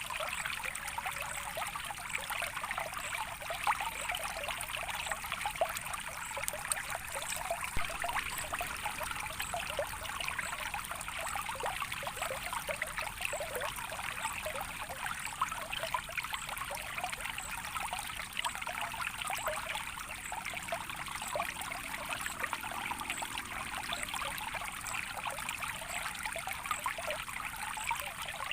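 Soft running water trickling steadily, with many small splashes and drips.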